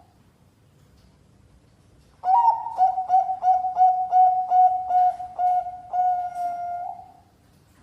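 Zebra dove (perkutut, Bangkok strain) singing: after a couple of seconds of quiet, a quick run of about a dozen clear coos at one steady pitch, ending on a longer drawn-out note.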